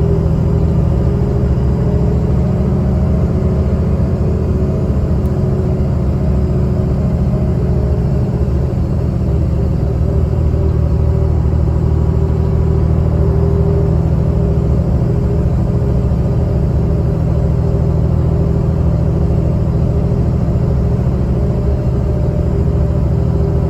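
Mercedes-Benz O307 city bus under way, heard from inside: a steady diesel engine rumble with road noise that holds even throughout.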